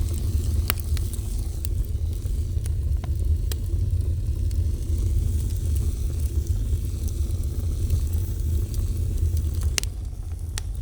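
Fire burning with a steady low rumble and scattered sharp crackles and pops, the strongest pop near the end.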